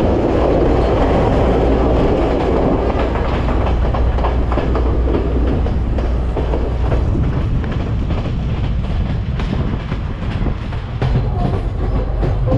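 Moving passenger train heard from beside its coaches: a steady low rumble of wheels and running gear, with many sharp clicks of the wheels over rail joints.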